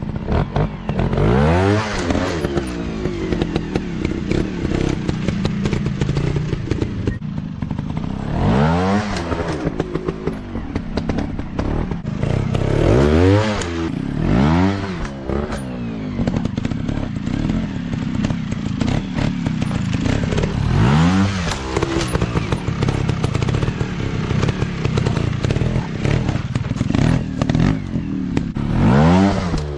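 150 cc dirt bike engines revving hard again and again, the pitch climbing sharply and dropping back several times, with knocks and clatter throughout.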